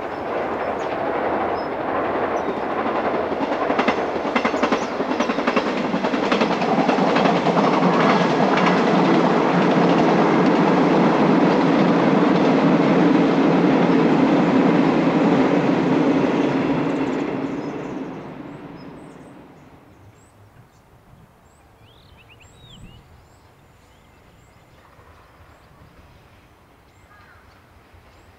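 A train running past on the railway line, its rumble building, holding loud with clicks of wheels over rail joints, then fading away about eighteen seconds in.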